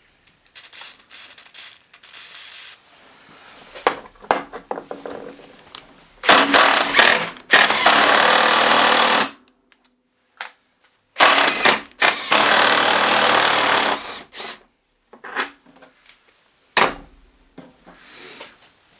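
Power tool running in two loud bursts of about three seconds each, with scattered clicks and knocks of tools and parts being handled around them.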